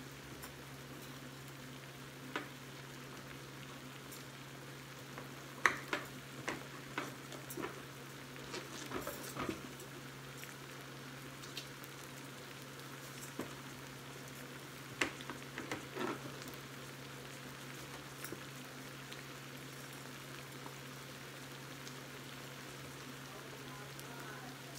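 Pork chops sizzling on a flat grill with a steady hiss, over a steady low hum. Scattered sharp clicks and knocks of a knife on a cutting board come in two clusters as an avocado is sliced.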